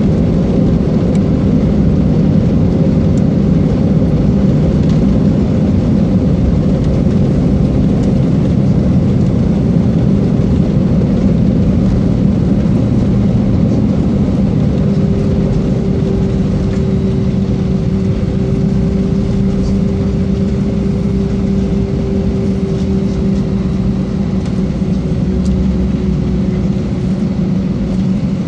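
Airbus A320's engines and airframe heard from inside the cabin: a steady rumble with a constant hum. About halfway in, a higher whine sets in and slowly falls in pitch.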